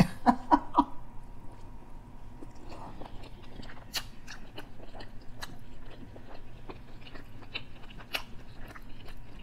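A person biting into and chewing teriyaki chicken, with irregular wet mouth clicks throughout. There are a few short hums in the first second.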